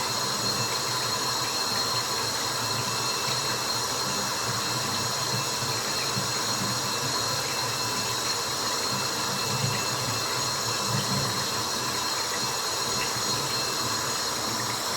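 Steady white-noise track: a continuous hiss with a fluttering low rumble underneath and faint steady whine tones, broken only by a few faint ticks.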